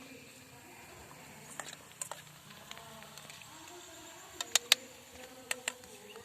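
A few sharp clicks or knocks over a faint steady background. The loudest are a quick pair about four and a half seconds in, and a second pair follows a second later.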